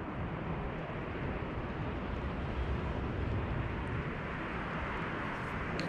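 Steady rushing outdoor background noise with a low rumble underneath, even throughout, with no distinct events.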